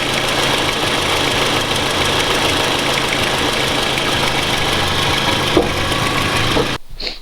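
Toyota 2AZ-FE 2.4-litre four-cylinder engine running with a fast, even knocking, which the owner takes for a worn timing chain. It cuts off abruptly near the end.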